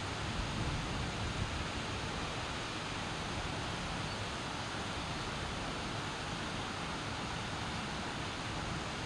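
Steady rain falling during the monsoon, an even hiss with no thunder in it.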